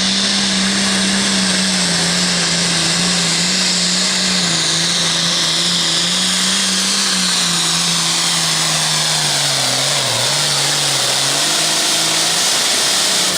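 Super farm pulling tractor's turbocharged diesel engine running flat out under load on a pull, with a loud hiss and whine over the engine note. The engine pitch sags briefly about ten seconds in and then picks back up.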